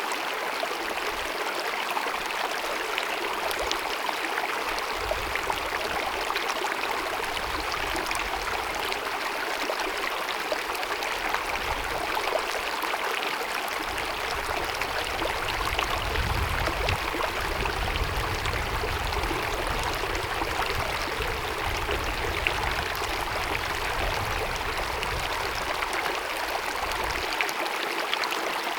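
Glacier-fed mountain meadow stream cascading over its bed: a steady rush of running water.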